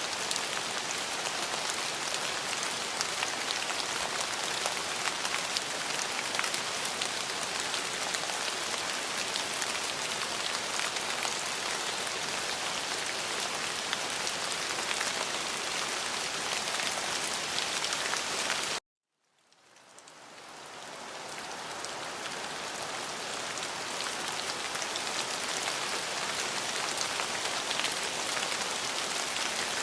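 Steady rain falling on a surface, with many separate drops heard in it. About two-thirds of the way through it cuts out abruptly to silence for a moment, then fades back in over a few seconds, like an edit or loop point in the recording.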